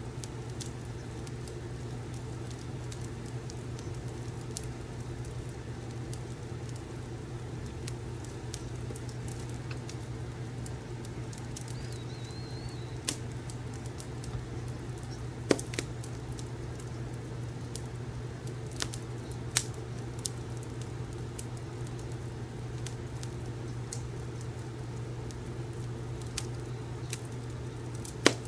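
Wood fire crackling in a fireplace: a steady low rumble with sharp pops and crackles scattered irregularly through it, the loudest pops about halfway through and just before the end.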